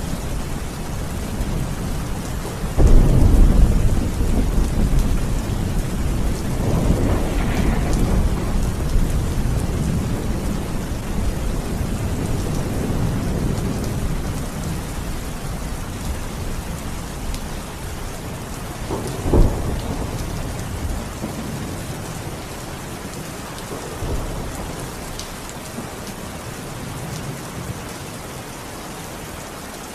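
Steady heavy rain during a thunderstorm. A loud clap of thunder comes about three seconds in and rumbles on for several seconds, and a second rumble swells soon after. A sharper, shorter crack comes about two-thirds of the way through, and a fainter one follows.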